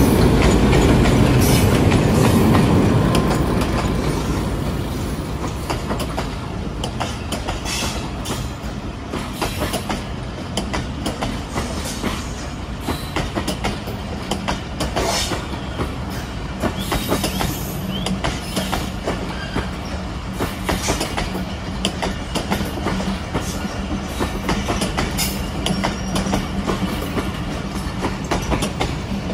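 Pakistan Railways HBU-20 diesel-electric locomotive passing close by, loudest in the first few seconds. Then a train of passenger coaches rolls past with a steady run of wheel clicks over the rail joints.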